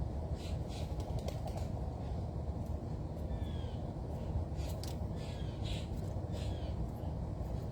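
Wild birds giving many short high calls, a few with quick falling notes, scattered irregularly over a steady low rumble.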